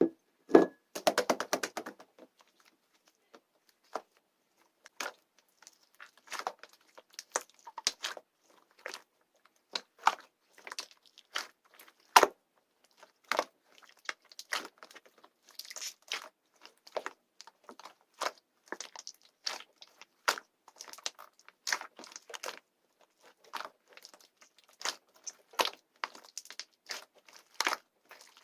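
Hands playing with slime: a quick run of crackling pops near the start, then sharp, irregular clicks and pops, one or two a second, as the slime is pressed and stretched.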